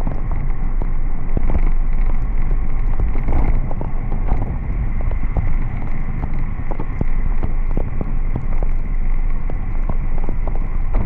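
Wind buffeting the microphone while riding, a loud steady low rumble with scattered sharp ticks throughout.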